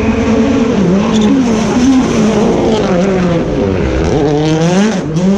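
A rally car's engine running hard on a stage, its note wavering up and down as the driver works the throttle. Near the end it falls away, then climbs sharply as the car accelerates again.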